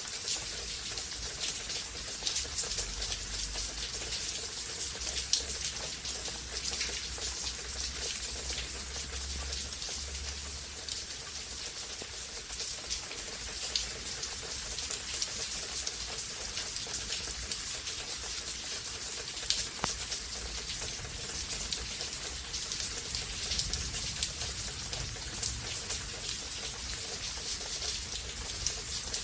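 Steady rain falling in a storm, an even hiss full of individual drops ticking on surfaces close by. A faint low rumble runs underneath for the first third or so and again near the end.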